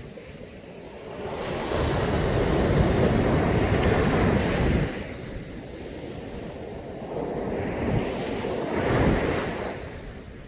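Caribbean Sea waves breaking on the beach in two surges: a loud one from about a second in that washes for some four seconds, then a softer one near the end, over a steady low wash of surf.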